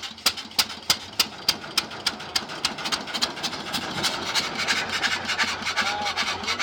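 A 1917 hit-and-miss engine running, giving a regular clatter of sharp beats about three a second that come quicker and denser in the second half.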